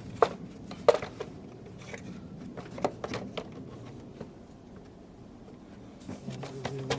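Irregular sharp clinks and knocks of a metal part and tools being handled and worked back into place in a car's engine bay, the loudest two in the first second.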